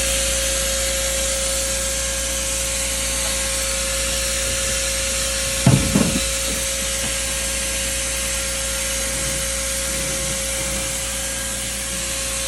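A motor-driven machine running steadily: an even hiss with a constant whine over a low rumble, and a brief low thump about six seconds in.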